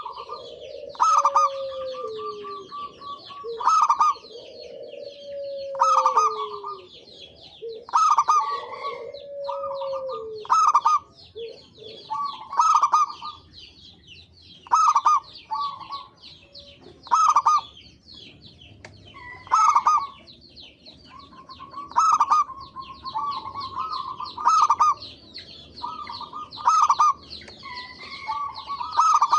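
Zebra doves (perkutut) cooing in short repeated phrases about every two seconds, with falling coos in the first few seconds, over continual high chirping.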